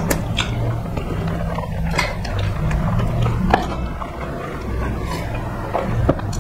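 Close-miked eating sounds from rice and curry eaten by hand: chewing, lip smacks and wet mouth clicks come at irregular moments. A steady low hum runs underneath.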